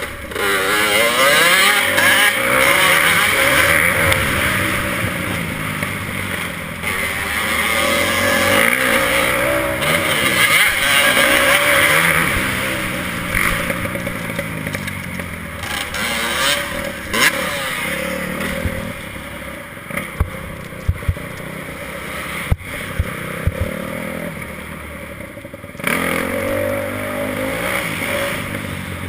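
Motocross bike engine revving up and down again and again as it is ridden through the gears, over a steady rush of noise. Several sharp knocks come about two-thirds of the way through.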